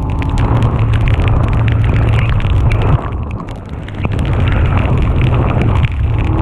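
Rain and wind buffeting the microphone: a loud low rumble with many sharp patters of drops hitting it, easing briefly about three seconds in.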